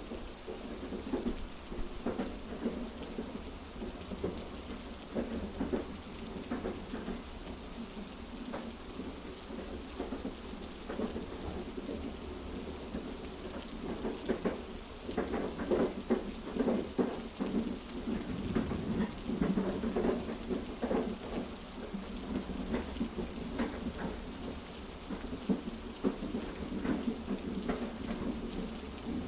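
Heavy rain falling steadily over a constant low rumble, with scattered sharp taps and drops coming and going in strength.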